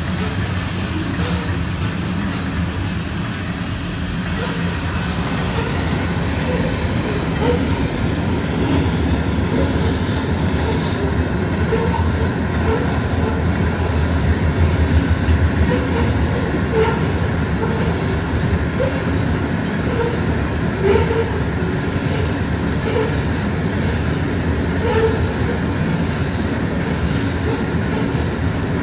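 Covered grain hopper cars of a freight train rolling past: a steady rumble of steel wheels on rail, with many brief wheel squeals and a few clicks over the rail joints.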